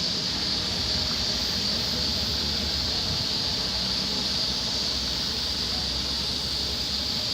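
A chorus of cicadas buzzing steadily, one continuous high-pitched drone, over a low background rumble.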